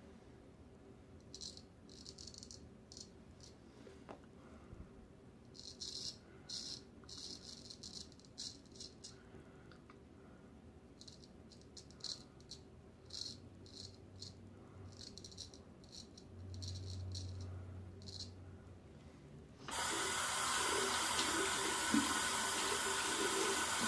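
Straight razor scraping through thick, coarse stubble in a series of short rasping strokes. Near the end a tap is turned on and runs.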